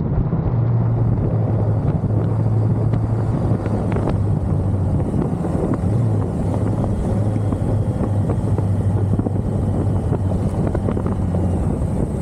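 1985 BMW K100 motorcycle's inline-four engine running at a steady cruising speed, with wind rushing over the microphone and road noise.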